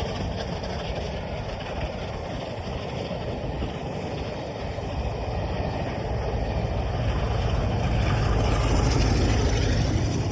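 Steam locomotive working a train on a climb, a steady heavy rumble that grows louder over the last few seconds.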